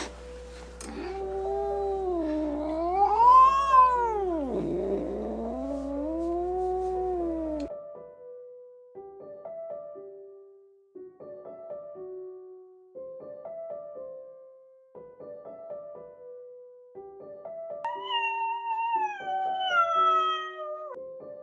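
Kitten meowing: one long drawn-out meow that wavers up and down in pitch for several seconds. After it, soft piano music with a repeating figure, and near the end a second meow that falls in pitch.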